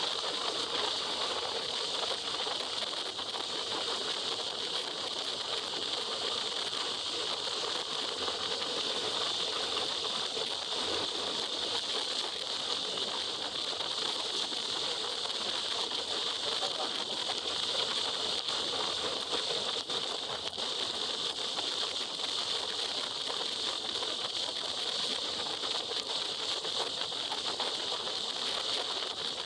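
Steady rushing noise of a motorcycle ride on a wet highway in rain: wind and rain on the rider's microphone mixed with tyre spray, with no clear changes.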